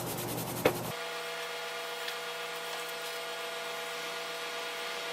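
A few clicks and a sharp tick, then a steady machine-like hum with several fixed pitches that holds unchanged for about four seconds.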